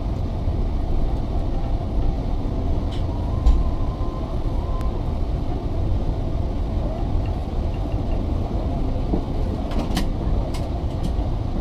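Steady low rumble inside the cabin of an Airbus A380-800, with a few light clicks about three seconds in and again near the end.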